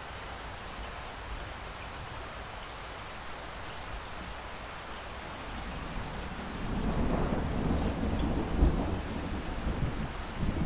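Steady rain falling, then a low rumble of thunder rolls in about two-thirds of the way through and keeps rumbling.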